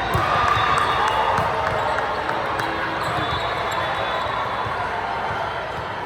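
Basketball being dribbled on an indoor court during a game, with scattered knocks and short squeaks over a steady background of voices.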